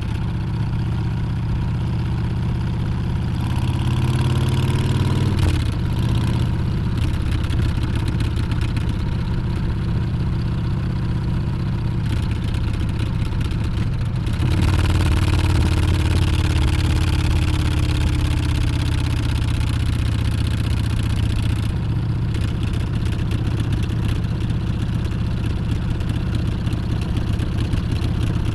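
Harley-Davidson Street Bob's Milwaukee-Eight 114 V-twin running under way. It rises in pitch under throttle about four seconds in and drops off sharply at an upshift, then pulls up again about halfway through.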